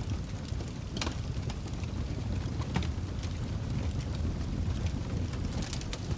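Wood fire burning in a fireplace: a steady low rumble of flames with scattered sharp crackles and pops, which come faster near the end.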